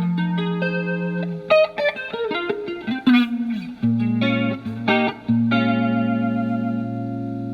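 Electric Telecaster guitar with alnico pickups played through a Marshall MG15FX amp's clean channel with its flanger effect on. Picked notes and quick phrases, then a chord struck about five and a half seconds in and left to ring.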